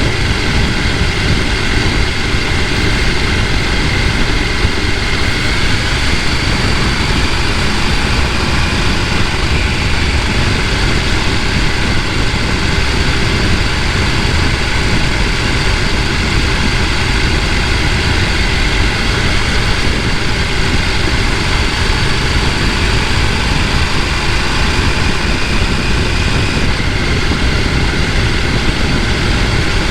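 Mountain stream rushing over rocks: a loud, steady rush of flowing water.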